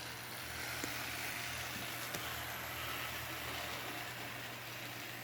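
Vintage AHM HO scale model train running on its track: a steady whir of the small locomotive motor and wheels over a low hum, with a couple of faint clicks.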